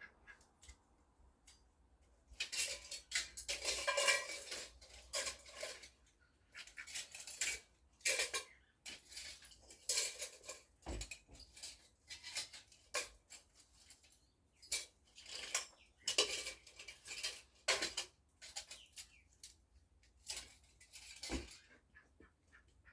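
Small pieces of scrap metal clinking and clattering as they are handled and sorted, in irregular bursts, busiest a few seconds in.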